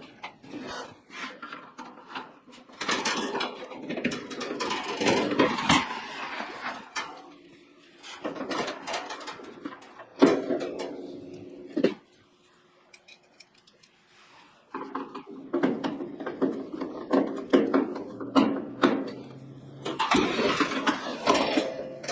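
Hands working on a kerosene heater, with irregular clicks, knocks, scraping and light clattering of its metal parts and a quiet pause in the middle.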